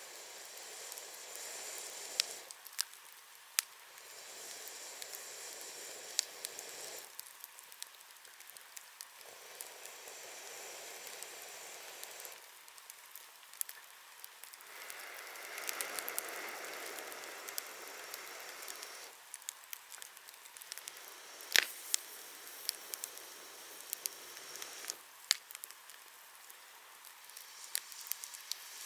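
Wood bonfire crackling, with scattered sharp pops and snaps over a soft hiss that swells and fades every few seconds.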